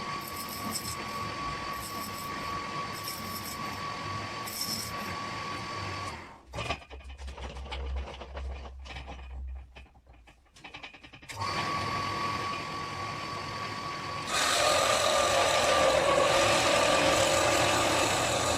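Small electric motor of a power tool running with a steady whine. It cuts out about six seconds in, leaving a low hum and a few clicks, and starts again near the halfway point. It runs louder over the last few seconds.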